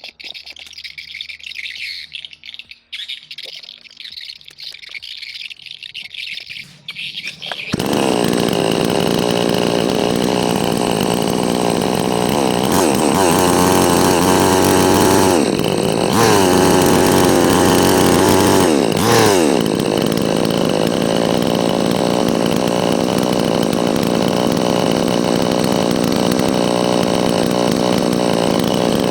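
New West 598 two-stroke petrol chainsaw running at high revs, starting suddenly about eight seconds in. Its pitch sags and recovers three times, then it holds steady. Birds chirp before it starts.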